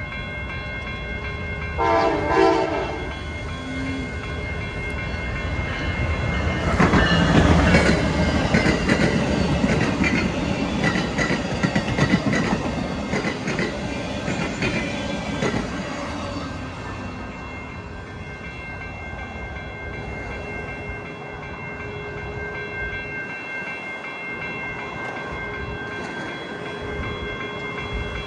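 Amtrak passenger train led by a Siemens SC44 Charger passing, its bell ringing high-pitched and unbroken. A short horn blast sounds about two seconds in. The wheel clatter and rush grow loudest from about seven seconds in, then die away.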